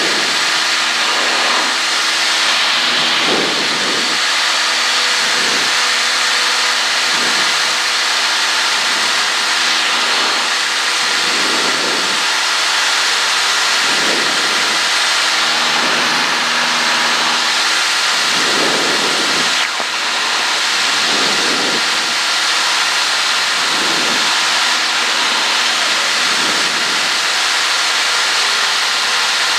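Cessna 152's four-cylinder Lycoming engine and propeller droning steadily in the climb, under heavy wind and engine hiss, heard from inside the cabin. The drone swells slowly about every two seconds.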